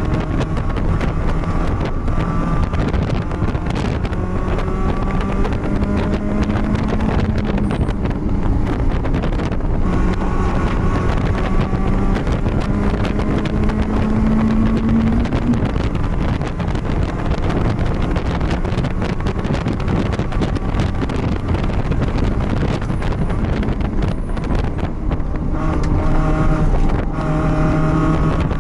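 BMW race car's engine heard onboard at speed, its pitch climbing through long pulls and dropping at shifts or lifts, with wind noise over the microphone.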